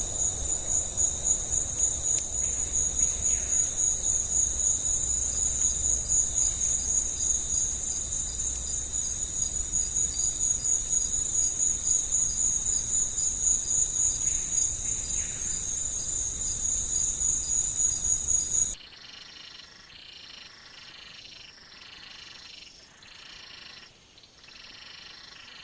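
Rainforest insect chorus: a loud, steady, high-pitched buzzing with a low rumble beneath. About 19 seconds in it cuts off abruptly, giving way to a quieter chorus of insects or frogs that pulses roughly once a second.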